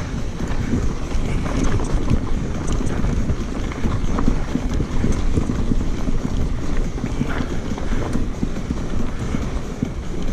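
Mountain bike riding fast over rough, dusty dirt singletrack: knobby tyres rattling and crunching over rocks and roots, with the bike clattering and wind buffeting the microphone.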